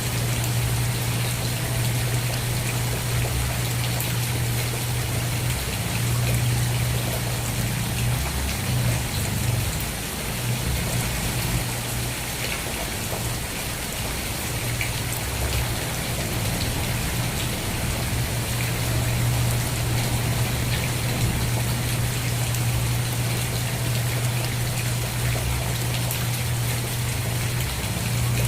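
Steady rain falling, a constant hiss with many small drop ticks on a surface, over a steady low hum.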